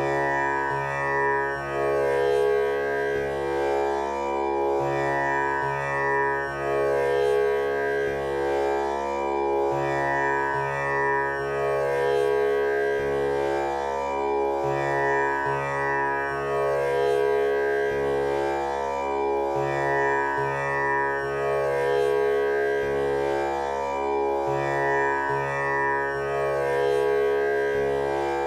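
Tanpura drone tuned to C# for a male voice: its strings are plucked one after another in a slow repeating cycle, each note ringing on with a buzzing shimmer so the drone never stops.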